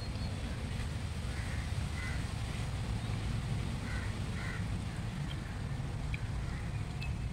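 A few faint short bird calls, in two pairs, over a steady low outdoor rumble.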